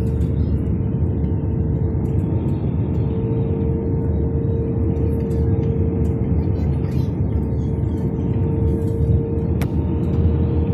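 Airliner cabin noise on approach for landing: the steady low roar of the jet engines and airflow, with a constant hum running through it.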